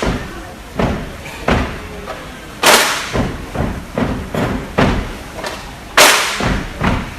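Rhythmic sharp knocks and thuds from a percussive dance performance, about one or two a second, with two loud strikes about three seconds apart among quieter ones, each ringing on briefly.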